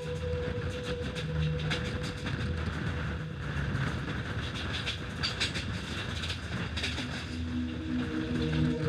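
Mumbai suburban electric train running at speed, heard from outside the carriage: a steady rumble with irregular clicks of the wheels over the rails and a steady whine. A few held tones come in near the end.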